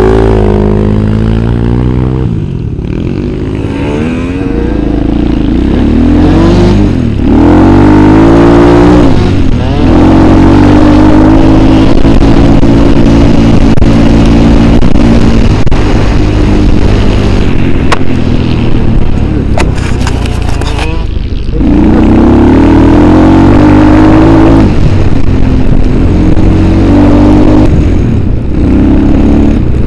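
Engine of a ridden off-road vehicle running hard, repeatedly revving up and easing off, its pitch climbing and falling with short drops in throttle several times.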